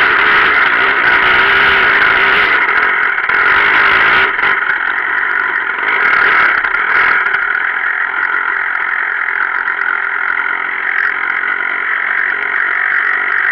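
Gas Gas 250 enduro motorcycle engine running under throttle, then easing off about four seconds in to a lower, steadier note, with a brief pick-up in revs around six seconds in.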